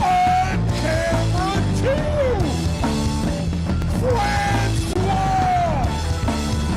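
Loud rock band playing, drums, bass and guitar, with a singer yelling held, bending notes over it.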